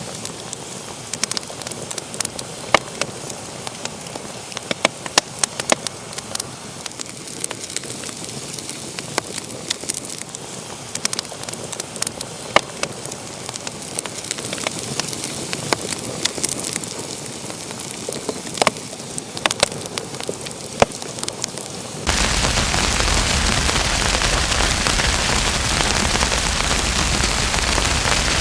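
Wood fire crackling in a fireplace, with frequent sharp pops over a soft hiss. About three-quarters of the way through it cuts abruptly to a louder, steady hiss with no pops.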